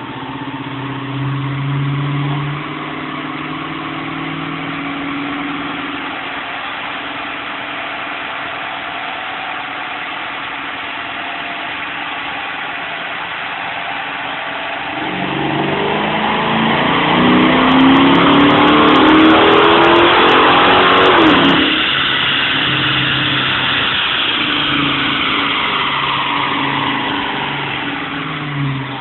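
Dodge Challenger's Hemi V8, breathing through an aftermarket cold-air intake and custom exhaust, idling with a brief rev about a second in, then pulled at full throttle on a chassis dyno: the pitch climbs steadily for about six seconds, cuts off sharply at the top, and the engine winds down.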